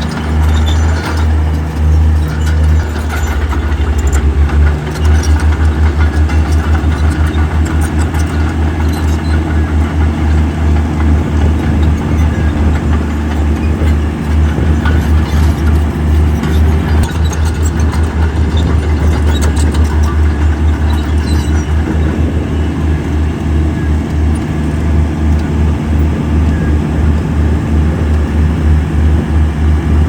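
Heavy diesel construction machinery running steadily, a deep engine drone with a fast, even low pulsing and occasional faint clanks.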